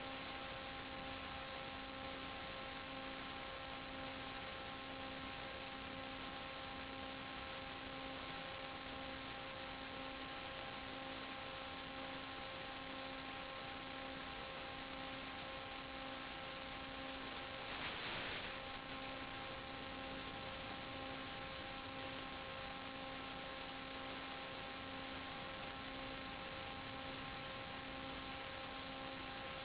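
Steady static hiss with an even electrical hum on the audio of a 5.8 GHz analog FPV video link, and a short louder rush of static about 18 seconds in.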